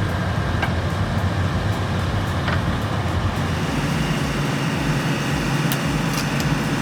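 Heavy diesel engine running steadily under load, its pitch stepping up slightly about four seconds in.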